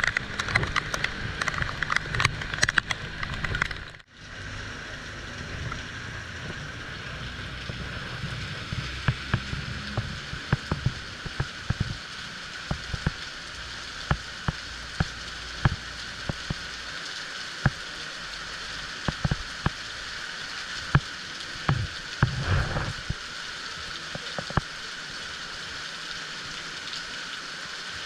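Heavy rain falling steadily, with many separate large drops striking close by. A low rumble runs under it for the first few seconds and stops abruptly about four seconds in.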